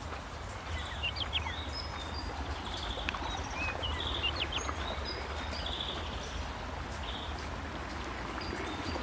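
Forest birds chirping and trilling in short repeated calls over the steady rush of a natural spring's water flowing from the rock. A low, steady rumble runs underneath.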